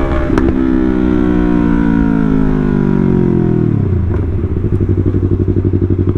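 Yamaha R3's 321 cc parallel-twin engine through a loud exhaust, revs falling steadily as the bike rolls off, then settling about four seconds in to a steady, evenly pulsing idle.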